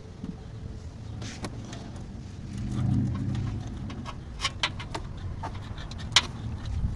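Scattered sharp metallic clinks and handling noise from a 14mm wrench being worked on the car's oil drain plug, with a low rumble of movement about three seconds in.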